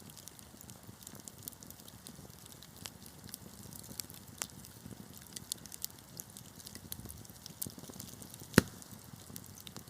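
Wood fire crackling, with sharp irregular pops over a low steady rush of burning, and one loud pop near the end.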